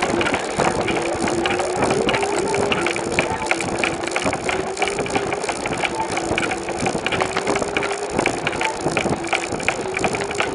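Road noise of a bicycle being ridden, heard through a camera mounted on it: continuous rattling and clicking over a steady rushing noise, with a steady, slightly wavering hum.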